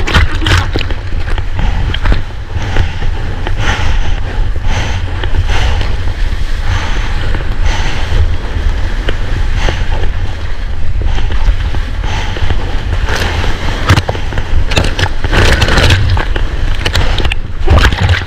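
Water sloshing and splashing right at a GoPro's microphone as a surfer paddles on his board, over a steady low rumble of water and wind against the housing, with many short splashes throughout.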